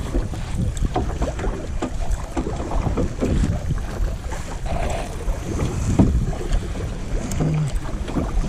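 Kayak paddle strokes dipping and splashing in lake water, irregular and repeated, with wind rumbling on the microphone.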